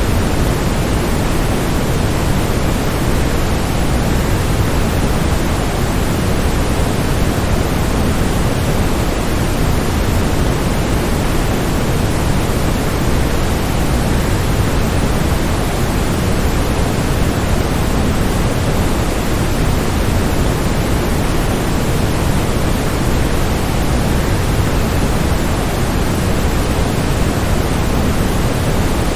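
Steady, unbroken rushing of a waterfall, even and featureless, heaviest in the low end.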